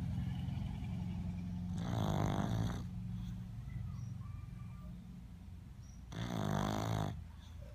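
A pug snoring while asleep on its back: two loud snores, each about a second long and roughly four seconds apart, over a steady low rumble of breathing.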